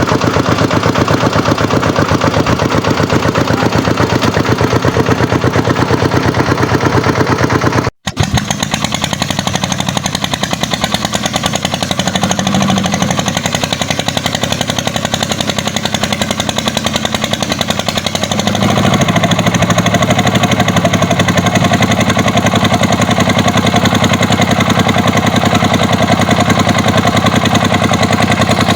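Kubota tractor's diesel engine running with a rapid, even chug and a brief break about eight seconds in. About two-thirds of the way through it grows louder and fuller, as if revved or put under load.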